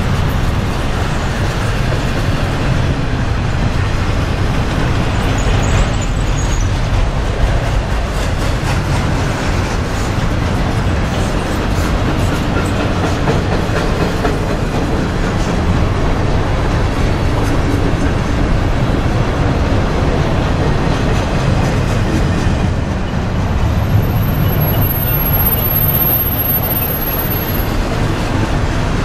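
Double-stack intermodal container train rolling past, its well cars' wheels rumbling and clicking steadily over the rails. A thin high-pitched squeal sounds for several seconds near the end.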